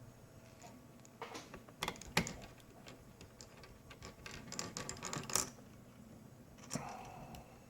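Small, irregular clicks and taps of plastic and metal laptop parts, screws and a screwdriver being handled during reassembly, in two clusters with a last tap near the end.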